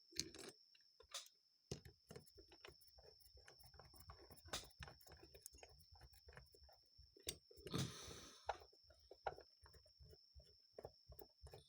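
Faint, irregular clicks and taps of small screws and a screwdriver at work while the screws are driven into a Rochester Model H carburetor, with a brief louder rustling sound about eight seconds in.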